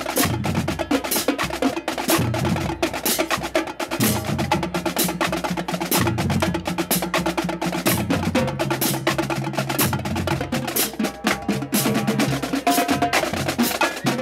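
Marching drumline playing: rapid snare strokes over tuned bass drums that step through different pitches, with a steady pulse of loud accents.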